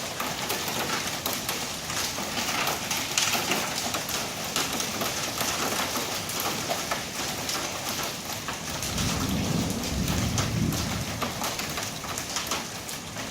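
Heavy rain mixed with small, BB-sized hail falling steadily, with many sharp ticks of hits. A low rumble of thunder about nine seconds in lasts a couple of seconds.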